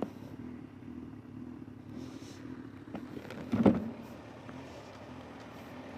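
Honda CB1000R inline-four engine running steadily under way in traffic, with a short loud burst of noise about three and a half seconds in.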